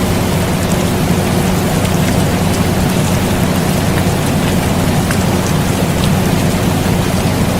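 Steady rain falling, with scattered drop ticks, over the constant hum of an air conditioner.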